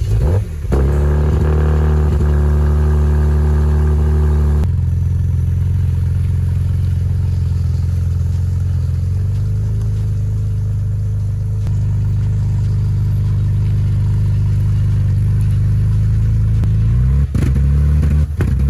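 Kia Stinger GT2's 3.3-litre twin-turbo V6 starting about a second in, running with a fuller, busier note for a few seconds, then settling into a steady idle. The sound breaks off briefly near the end.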